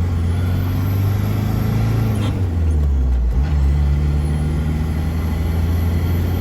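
Isuzu 3.1-litre turbo diesel (4JG2) in a 1992 Rodeo accelerating at full throttle under load. The engine note breaks up and dips briefly about halfway through, then pulls steadily again.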